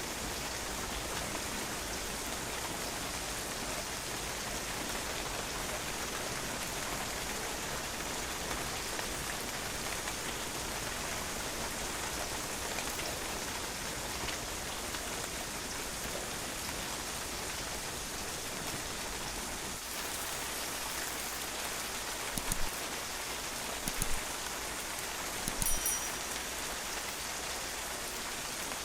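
Steady rain falling on a patio, drops splashing on the hard surface in an even hiss. Near the end, three louder sharp ticks stand out from the rain, the last with a faint ring.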